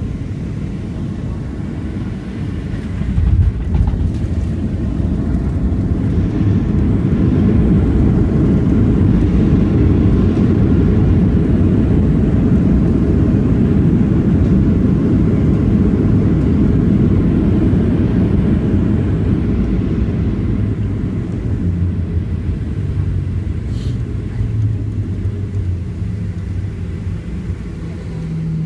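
Boeing 737 landing, heard from inside the cabin: a jolt about three and a half seconds in, then a loud low rumble of reverse thrust and braking that swells and holds for about fifteen seconds. The rumble eases near the end as the plane slows, leaving the steadier hum of the engines winding down.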